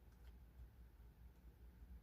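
Near silence: low room rumble with one faint click about a quarter second in.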